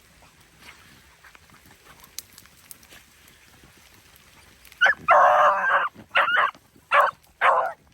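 Beagle hound baying on a rabbit trail: a long drawn-out bawl starting about five seconds in, then a quick run of about four short barks.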